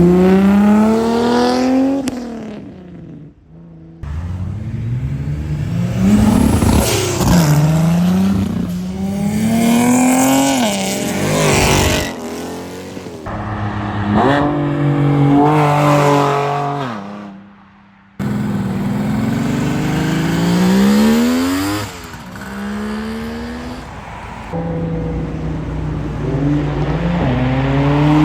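A run of short clips of cars accelerating hard away. In each, the engine note climbs, drops back at a gear change and climbs again. The clips change abruptly from one car to the next.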